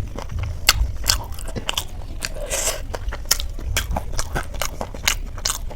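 Close-miked chewing of crunchy Indian street snacks (chaat), with irregular crisp crunches and clicks several times a second.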